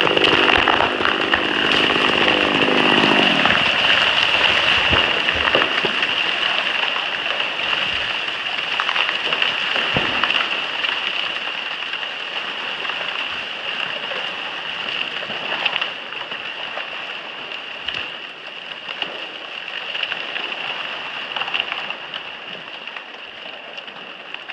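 A chainsaw running for the first few seconds, then going quiet. After that, a long rustling, crackling crash of trees going down one after another in a felling chain, with occasional sharp cracks of breaking wood, slowly dying away. A steady high hiss runs underneath.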